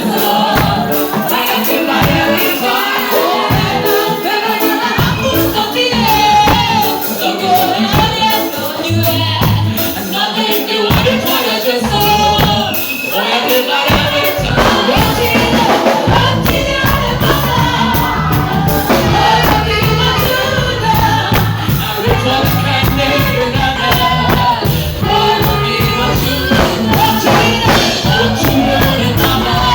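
Church gospel worship music: several voices singing over fast rhythmic percussion, with a steady bass line filling in about halfway through.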